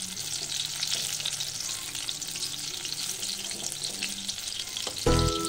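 Batter-coated mutton slices deep-frying in hot oil in a kadai: a steady crackling sizzle. Background music comes in just before the end.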